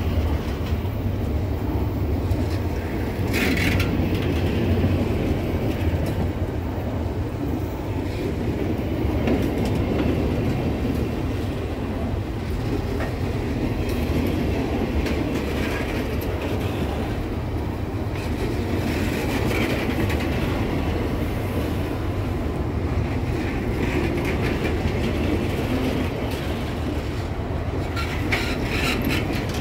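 Loaded freight train's hopper wagons rolling past close by: a steady low rumble of steel wheels on the rails with clickety-clack, and short metallic clatters about three seconds in and again near the end.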